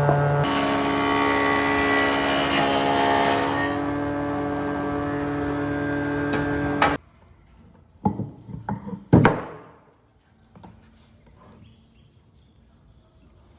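A power tool's motor running steadily, cutting off sharply about seven seconds in, followed by a few knocks and one louder clunk.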